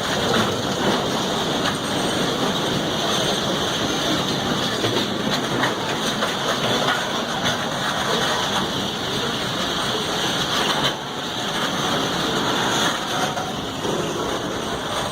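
Train wheels rumbling and rattling on the rails as a freight train and a passenger train pass each other close by. The noise is loud and steady, and drops briefly about eleven seconds in.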